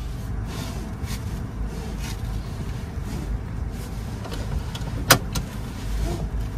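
Car engine idling, a steady low hum heard from inside the cabin, with the rustle of a seat belt being pulled across and a single sharp click about five seconds in.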